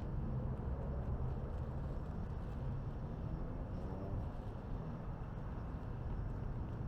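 Steady low rumble of city traffic and wind, with a faint engine tone passing through the middle and a few faint crackles from the fire.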